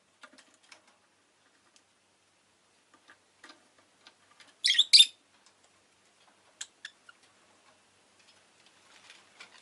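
Rosy-faced lovebird giving two loud, high chirps in quick succession about five seconds in, then two short chirps, among scattered faint clicks and taps.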